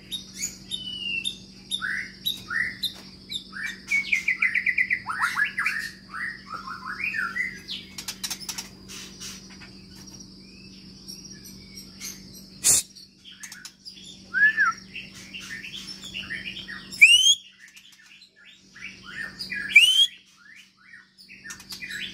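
White-rumped shama (murai batu) singing a varied song of short whistled phrases, with a fast trill about four seconds in and loud, sharp rising whistles near the end.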